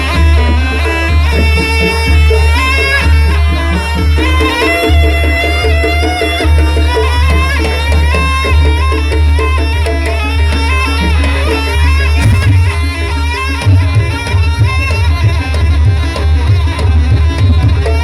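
Loud traditional jaranan music from East Java: hand drums beating over a heavy, booming bass, with a high, wavering melody line running over it. About twelve seconds in, the low drums turn choppier.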